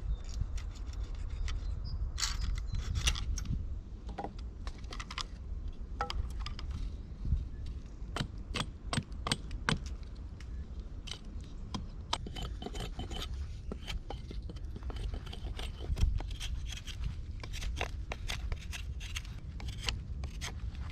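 Many irregular small clicks, taps and short scrapes, like objects being handled, over a steady low rumble.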